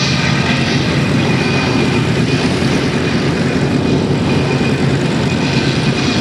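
Douglas C-47 Dakota's twin Pratt & Whitney R-1830 Twin Wasp radial engines droning steadily as the aircraft flies its display.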